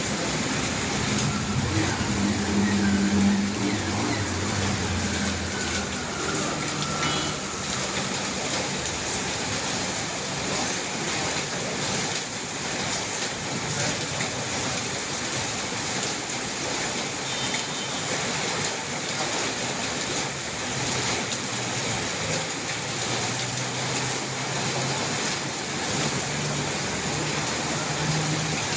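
Heavy rain falling in a steady hiss, with faint low hums coming and going underneath.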